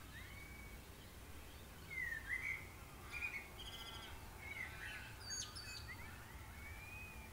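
Songbirds chirping and calling: short whistled rising and falling notes, a quick trill about three seconds in, and a drawn-out whistle near the end, over a low steady hum.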